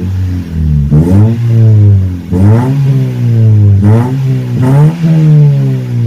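Toyota Vios four-cylinder engine revved in short blips through an aftermarket racing exhaust, about four rises and falls in pitch.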